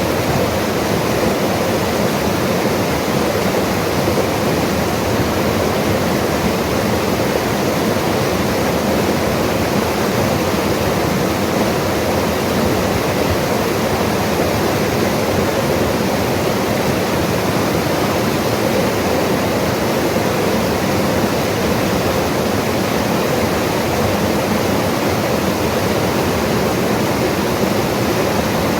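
Mountain river rushing over rocks: a loud, steady, unbroken roar of water.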